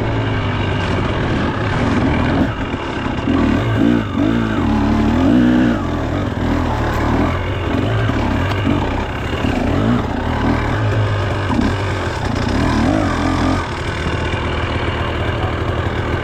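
2025 KTM 300 XC two-stroke dirt bike engine under way, its pitch rising and falling again and again as the throttle is opened and closed.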